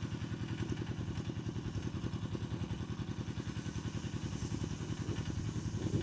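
Engine of a small tractor running steadily while pulling a plough, with a rapid, even pulsing beat.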